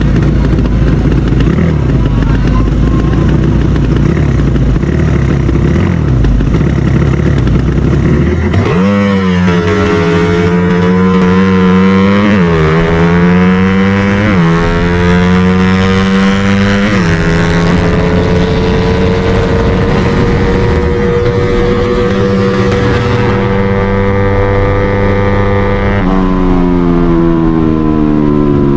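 Drag-racing motorcycle engine: after a rough rumble, it launches about nine seconds in and revs sharply upward through three quick gear shifts, each a brief dip in pitch. It holds a high steady pitch at full throttle for several seconds, then the pitch falls away near the end as the throttle closes.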